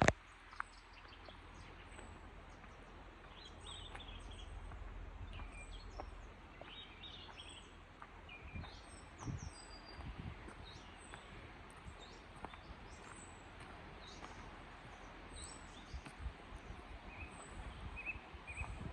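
Woodland birds chirping and calling in short repeated high notes over the steady rush of a river. A sharp click right at the start and a few low thumps about halfway through.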